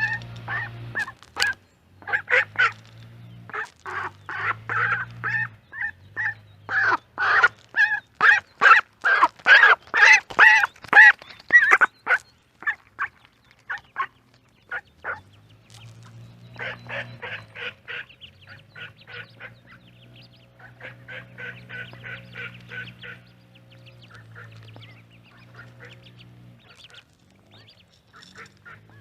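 Ducks quacking in runs of short calls, the loudest and fastest run about seven to twelve seconds in, followed by softer, quicker chatter.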